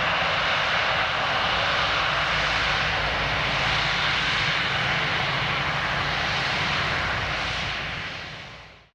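Boeing 787-8 Dreamliner's jet engines in a steady roar on departure. The sound fades out toward the end.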